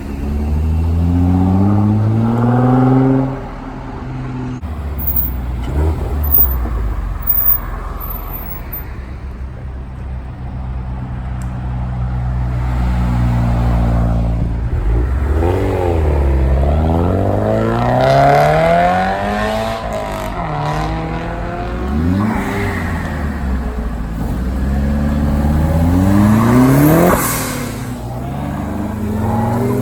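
Car engines accelerating away one after another, each engine note rising in pitch as it revs up, with drops between as gears change. There are a couple of short sharp pops about six to eight seconds in.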